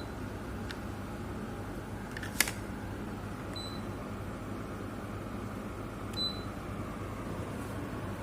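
Sharp mini split air conditioner indoor unit running with a steady airflow hum. It gives a short high beep twice, about three and a half and six seconds in, as it acknowledges remote-control commands. A sharp click comes about two and a half seconds in.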